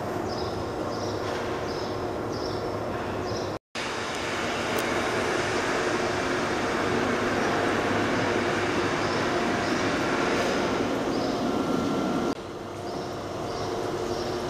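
Steady rumble and hiss of a train standing at a platform under a station's train shed, with short high chirps repeating about twice a second in the first few seconds. The sound cuts out for a moment about four seconds in, grows louder, then drops suddenly near the end.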